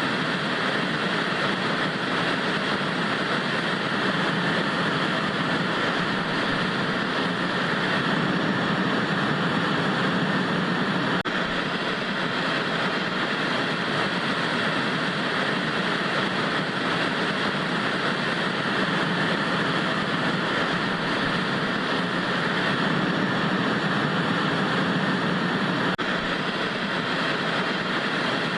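Analog TV static: a steady hiss of even noise that holds level throughout, with two very faint ticks about eleven seconds in and again near the end.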